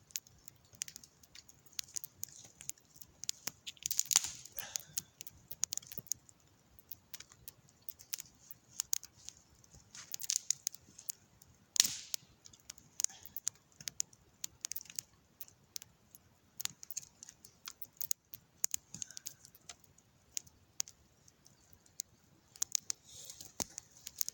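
Campfire of wet wood crackling, with irregular sharp pops and snaps; the loudest snaps come about 4 and 12 seconds in.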